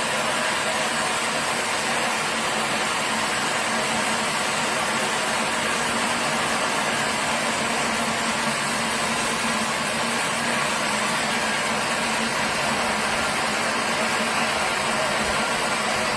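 Sawmill machinery running steadily, a continuous even mechanical noise with a faint low hum and no change in pitch.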